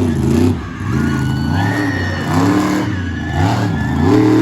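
Monster truck engine revving hard in repeated throttle blips, its pitch swinging up and down several times, with a thin high whine over it.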